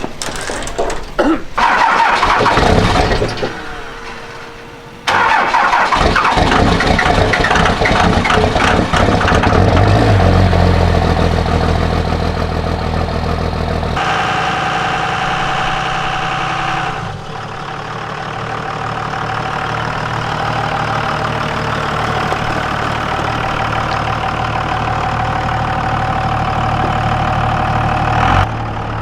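An old pickup truck's engine being cranked over, catching about ten seconds in, and then idling steadily, its tone shifting a couple of times.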